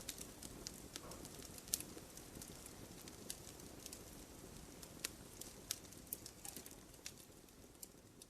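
Wood fire crackling: irregular sharp pops and snaps over a faint, steady low rustle, growing slightly fainter near the end.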